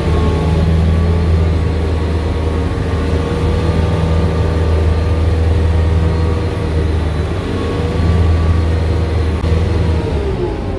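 Sherp 10x10 amphibious all-terrain vehicle's diesel engine running at a steady, even speed under way, with a deep hum that holds its pitch and sags slightly near the end.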